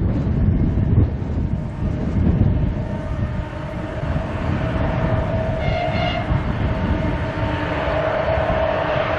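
M62 'Taigatrommel' diesel locomotive with its two-stroke V12 diesel engine running, a deep rumble throughout, joined about three seconds in by a steady held tone.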